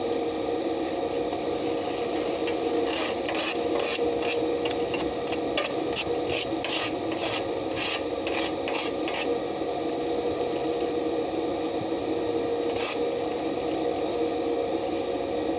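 Rasping hand-tool scrapes on steel, a run of quick strokes about two a second for several seconds and one more near the end, over a steady hum and hiss.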